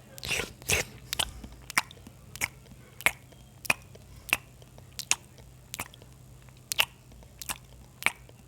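Close-miked open-mouth chewing: a steady run of sharp, wet mouth-smacking clicks, a little under two a second, with a softer crunching bite near the start.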